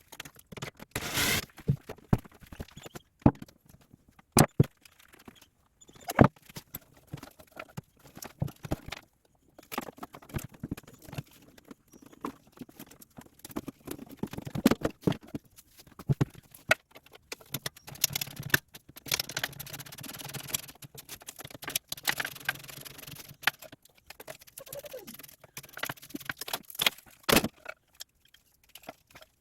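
Hand tools and loose metal parts clinking, knocking and scraping at irregular intervals as a small motorcycle is being stripped down.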